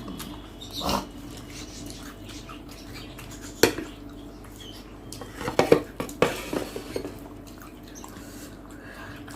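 Dishes clinking on the table during a meal: a few scattered sharp clinks, the loudest about three and a half seconds in, then a quick cluster of knocks about two seconds later.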